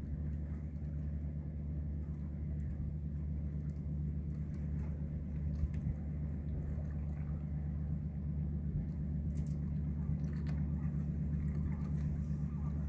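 Ro-ro cargo ship's engines giving a steady low drone with a deep, even hum.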